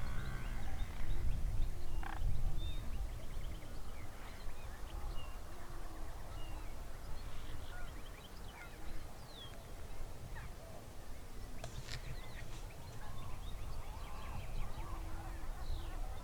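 Waterfowl calling, ducks and geese, with small birds chirping at a higher pitch in between.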